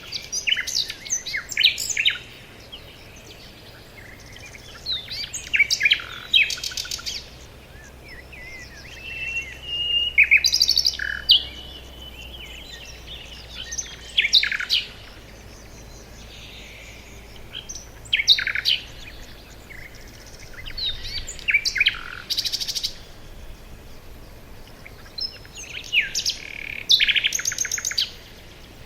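Songbirds singing in a forest: short chirping phrases from several birds every few seconds, some breaking into rapid trills, with one longer steady whistle about ten seconds in.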